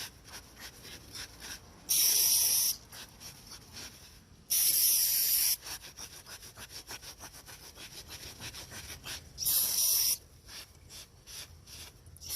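Aerosol brake cleaner hissing from the can in three short sprays, with a towel rubbing and scrubbing on concrete in between to pick up the loosened oil.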